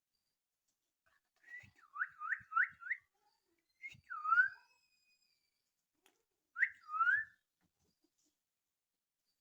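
Short swooping whistles, each dipping and then rising in pitch: a quick run of four, then a single one, then a pair.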